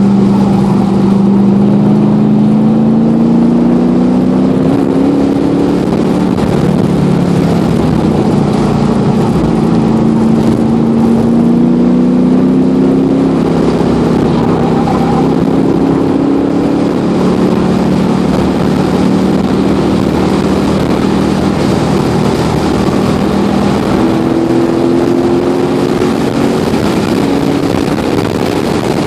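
LS1 V8 engine of a Mazda RX-7, heard from inside the cabin while it is driven on track. The engine note climbs in pitch under acceleration, falls back, and climbs again a few times, over steady wind and road noise.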